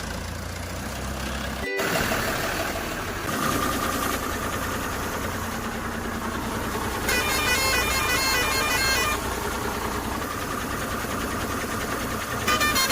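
Vehicle engine sound running steadily, with a run of rapid horn toots for about two seconds starting around seven seconds in, and a few more near the end.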